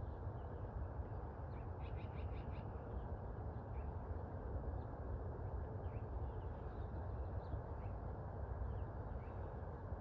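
Small birds chirping faintly, with a quick run of about six notes around two seconds in and scattered single chirps after, over a steady low background rumble.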